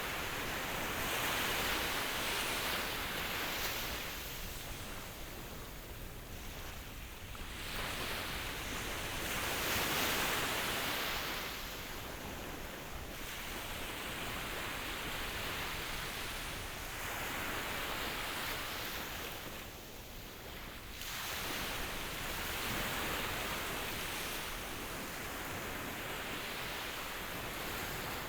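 Ocean waves washing ashore: a continuous hiss of surf that swells and recedes about every four to five seconds.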